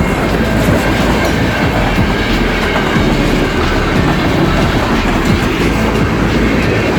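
Freight train rolling past at close range, a steady rumble with the clickety-clack of its wheels over the rails.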